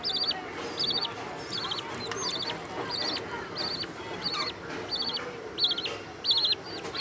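A small bird calling over and over, each call a quick run of three to five high chirps, repeated about once every half second.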